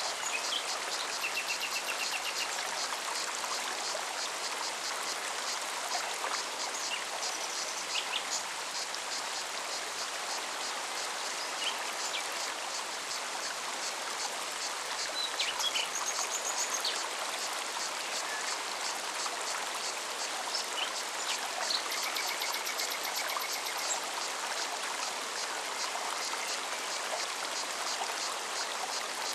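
Forest stream running steadily, with a cicada's fast pulsing song high above it and several short bird chirps and trills.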